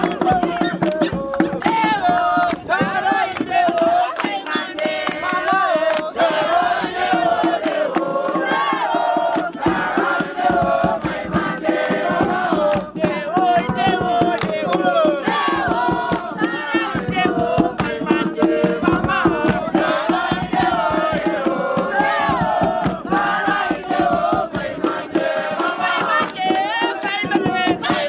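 A crowd of many voices singing and chanting together over a fast, steady beat.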